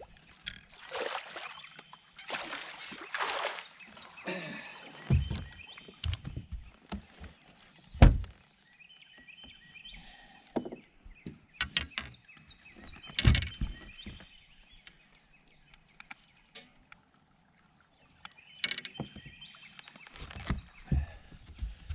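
Water splashing and sharp knocks against a fishing boat as a big striped bass is brought in and landed, the loudest knock about eight seconds in. Birds chirp now and then.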